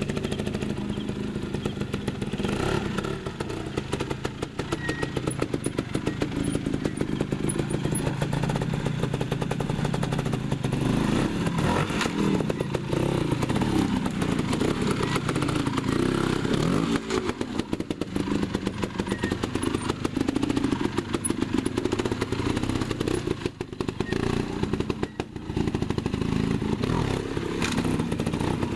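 Trials motorcycle engine running and revving up and down as the bike is ridden through a section, the throttle dropping off briefly a few times near the end.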